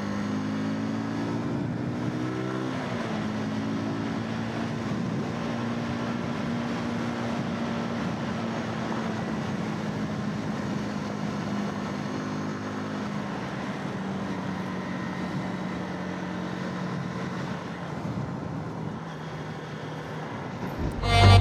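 Zontes 125 motorcycle's single-cylinder engine running at a steady cruise over wind and road noise. Its pitch drops about two seconds in, holds, then eases off and gets quieter near the end as the bike slows.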